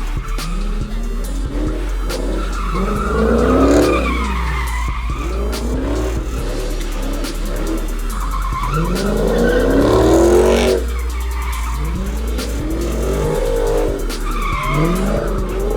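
A car's engine revving hard again and again while its tyres squeal and skid through a slide. The engine note climbs and drops about four times, loudest around four and ten seconds in.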